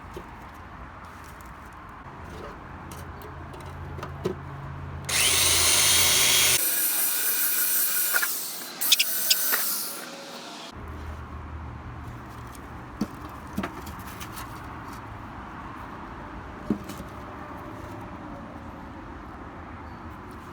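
A handheld power tool spins up about five seconds in and runs for about five seconds on metal, with a few sharp clinks near the end. Around it are scattered small clicks of parts being handled over a low hum.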